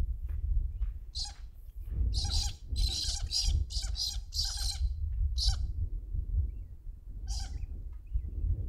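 A bird calling in short harsh bursts: a few single calls and a quick run of them between about two and five seconds in. Under it is a steady low rumble of wind on the microphone.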